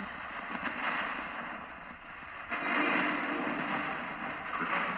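Ghost box (radio-sweep spirit box) putting out a steady static hiss, louder from about two and a half seconds in.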